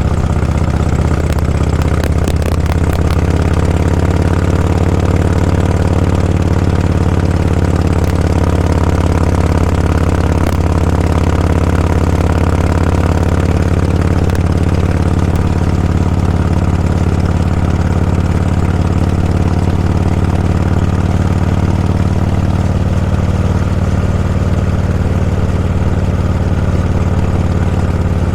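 Vehicle engine running at a steady speed, a low, even hum that does not change in pitch, over a haze of road and wind noise.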